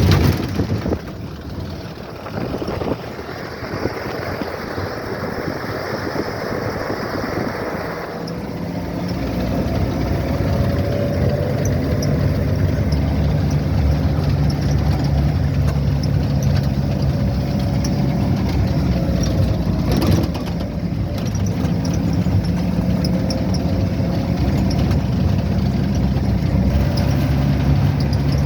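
A vehicle's engine running steadily with road rumble while travelling; about eight seconds in the engine note becomes louder and steadier. A brief knock sounds about two-thirds of the way through.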